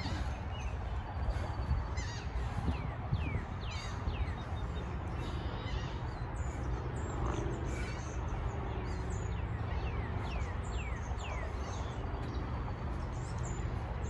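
Birds chirping: several runs of short downward chirps, over a steady low rumble.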